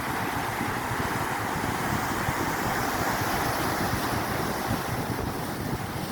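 Sea surf washing steadily on the shore, with wind buffeting the microphone in low, irregular rumbles.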